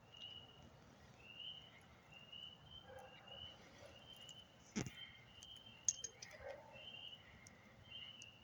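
Faint night chorus of short, high-pitched trilling calls, repeating about once a second. There is a sharp knock about five seconds in and a click about a second after it.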